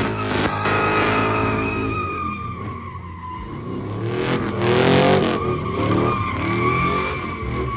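A truck swung around in a burnout or drift: its tires squeal in a steady high tone while the engine revs up and down, loudest about five seconds in.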